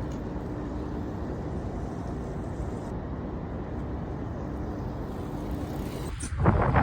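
Steady low rumble of riding noise on a bicycle, wind on the microphone and tyres rolling, with a faint steady hum; louder wind noise comes back near the end.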